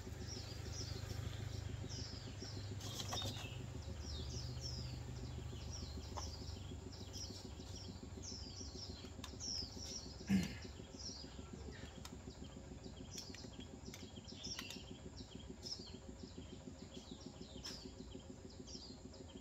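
Small birds chirping over and over, short quick downward-sweeping notes. A low hum runs under them for the first six seconds or so, and a single short, louder sound comes about ten seconds in.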